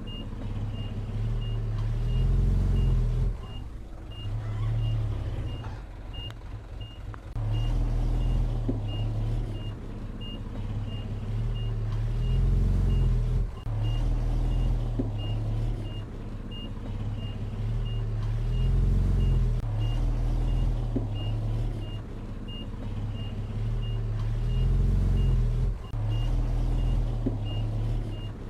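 Backup alarm of heavy earthmoving equipment beeping steadily, about one and a half beeps a second, over a diesel engine's low running sound that swells under load and eases off every five or six seconds, as a machine works back and forth.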